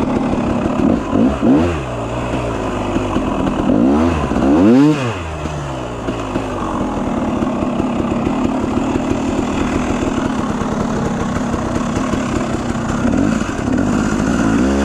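A KTM 300 XC-W two-stroke dirt bike engine revving, its pitch sweeping up and back down twice in the first five seconds. It then runs at a steady lower speed, with more revving starting near the end.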